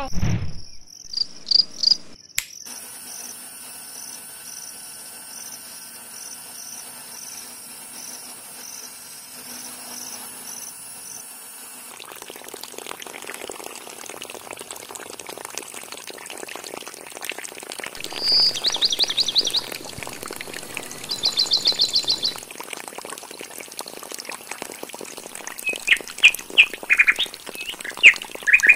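Insects chirping in a steady rhythm with bird calls over them: two fast trills past the middle and a few sharp chirps near the end. From about twelve seconds in there is also a steady rush of water pouring and splashing from the outlets of two small DC-motor water pumps.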